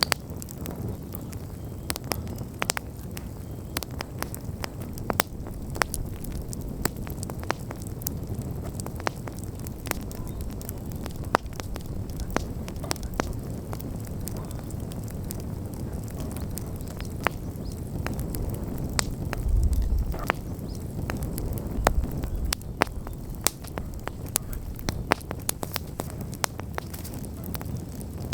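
Wood campfire burning, with frequent sharp crackles and pops of burning wood over a steady low rush of flame. Twice, about two-thirds of the way in, a brief louder low rumble rises.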